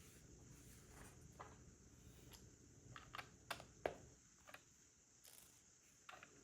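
Plastic LEGO pieces clicking and tapping as they are handled and pressed together: a few faint clicks, then a quick cluster of several about three to four seconds in, the loudest near four seconds.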